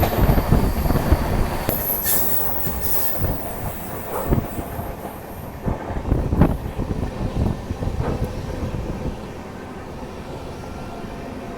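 Passenger train running on the track, its wheels rumbling and clattering over rail joints, with a high wheel squeal about two seconds in. The running gets quieter and steadier near the end.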